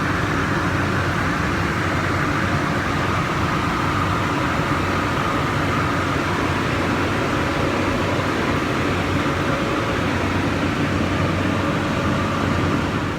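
Steady mechanical whirring hum with a faint whine, unchanging in level throughout.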